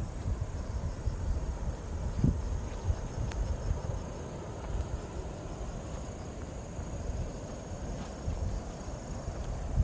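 Insects trilling steadily at a high pitch, over a low gusty rumble.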